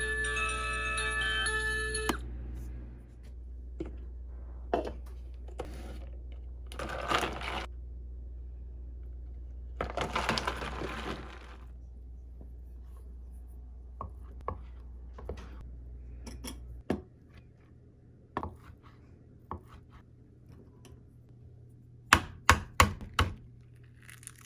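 Kitchen food-prep sounds: scattered knocks and clicks of utensils and dishes, with two longer scraping rustles and a quick run of sharp clicks near the end. Background music ends about two seconds in.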